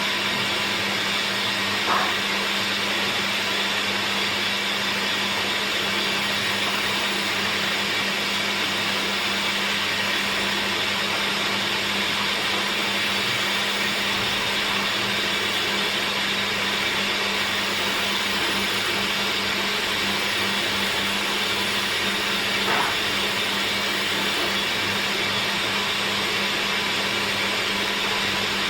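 Electric woodworking machine running steadily with a constant hum and a brief knock twice.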